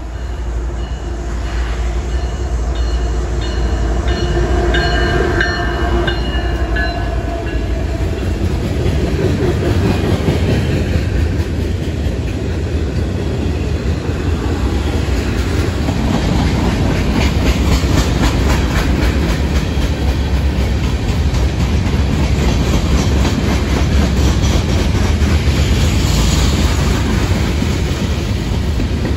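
Freight train of covered hoppers, tank cars and boxcars rolling past: a steady rumble with rhythmic clickety-clack of wheels over rail joints, growing a little louder over the first few seconds. A few high, steady ringing tones sound over the first several seconds.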